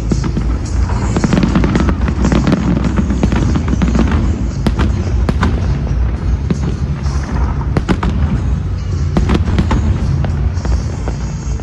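Fireworks bursting and crackling in quick succession, with music playing underneath.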